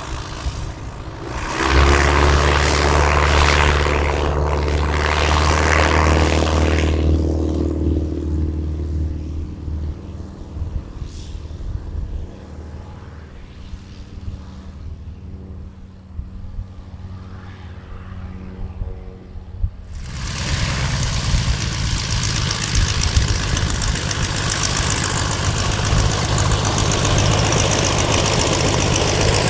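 Light vintage propeller plane's piston engine passing close: a loud, steady, low drone comes in about two seconds in and fades away over the following several seconds. About two-thirds of the way through, a loud engine drone with a rushing noise starts abruptly and keeps going.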